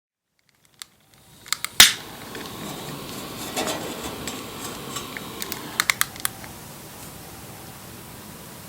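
Wood fire crackling and popping: a steady hiss of burning with sharp pops, the loudest about two seconds in and a quick cluster around six seconds. The sound fades in after about a second of silence.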